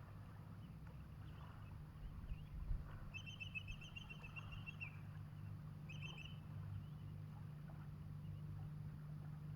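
A bird's rapid trill, a long one about three seconds in lasting nearly two seconds, then a short one about a second later, over a steady low hum.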